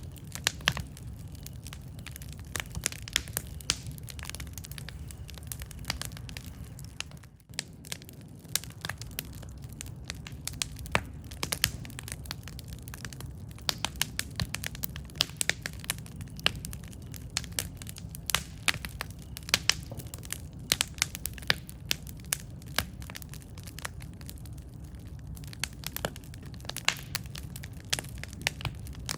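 Wood campfire burning, with frequent sharp crackles and pops over a steady low rumble of the flames. The sound briefly dips about seven seconds in.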